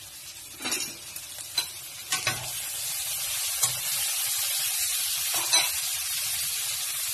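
Sliced onions sizzling as they fry in a pan, with a spatula scraping and knocking against the pan about five times. The sizzle builds over the first couple of seconds, then holds steady.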